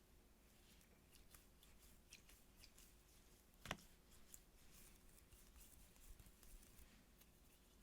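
Faint ASMR handling of squishy toys: soft scattered ticks, light scratches and crinkles, with one sharp click about halfway through.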